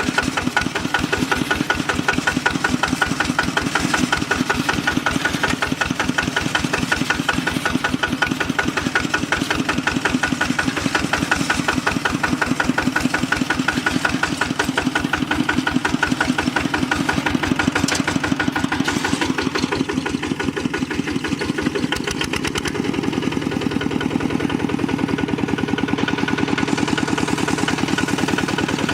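Kubota RT walking tractor's single-cylinder diesel engine running with a fast, even chugging beat. About two thirds of the way through its note changes and turns more even.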